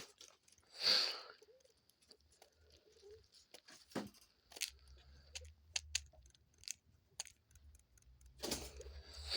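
A dove pecking at seeds: an irregular run of small, sharp clicks, with two brief rustles, one about a second in and one near the end.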